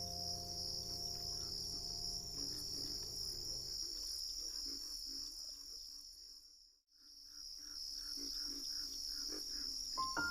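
Crickets chirring steadily at a high pitch over a soft, rhythmic lower pulsing. The chirring fades out briefly about two-thirds of the way in, then comes back. Sustained music notes die away in the first few seconds.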